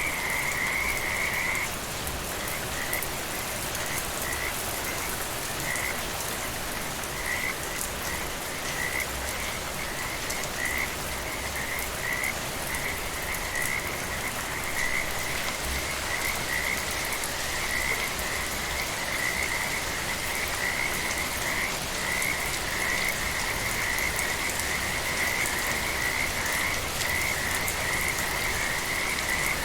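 Frogs calling in rapid, pulsing trills over steady, gentle rain. The calls come in short bursts for the first half and run almost without a break in the second half.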